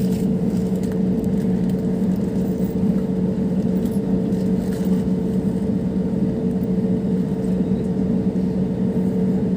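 Steady engine drone inside an airliner cabin in flight, an even noise with two constant low hums.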